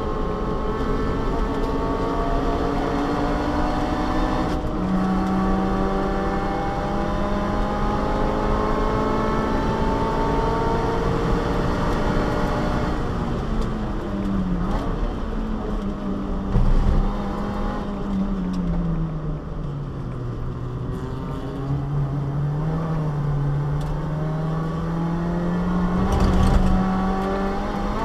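Subaru Vivio's small four-cylinder engine heard from inside the cabin on track, climbing steadily in pitch under acceleration, dropping in pitch as the driver comes off it partway through, then climbing again. Two short thumps stand out, one a little past the middle and one near the end.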